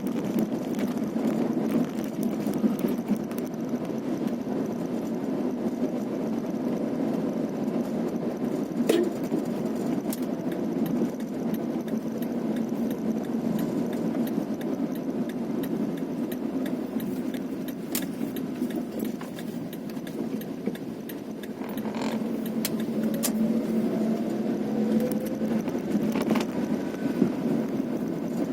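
A vehicle driving along a rough, potholed road: steady engine and road rumble with occasional sharp knocks and rattles. Near the end the engine pitch rises as it speeds up.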